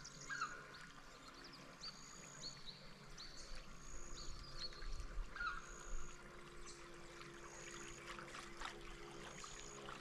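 Faint outdoor ambience: a short high-pitched call repeats about every second and a half, with a lower rising call every few seconds, over a faint steady hum.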